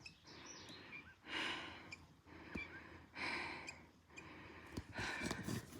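A hiker breathing hard after a steep uphill climb, with three long breaths, about one every second and a half.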